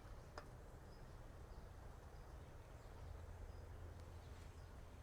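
Near silence: a low steady background rumble, with one faint click just under half a second in.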